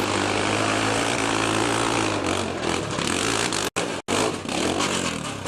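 Motocross dirt bike engine running loudly and steadily, cut off twice for an instant near the end.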